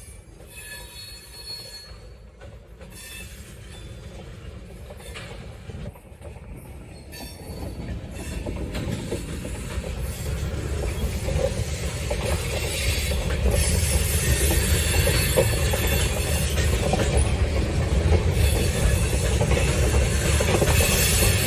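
Freight train of tank cars rolling past, steel wheels rumbling and clicking over the rail joints. The sound grows steadily louder from about eight seconds in.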